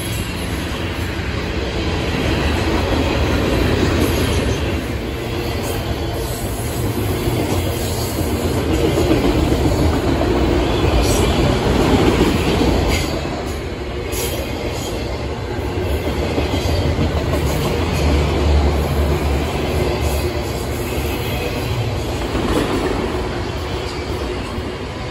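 Freight train's boxcars and autorack cars rolling steadily past close by, steel wheels rumbling and clacking over the rails.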